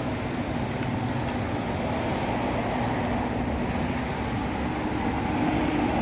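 Steady road and engine noise inside a moving car, an even low rumble with hiss that grows slightly louder near the end.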